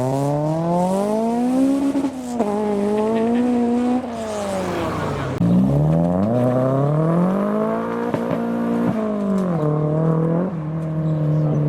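Modified car's engine revving as it pulls away: the engine note climbs for about two seconds, drops and holds, falls away, climbs again about six seconds in, then settles to a lower steady note near the end.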